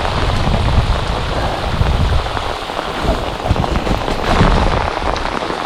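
Rain coming down hard: a steady dense hiss of falling rain with a low rumble underneath.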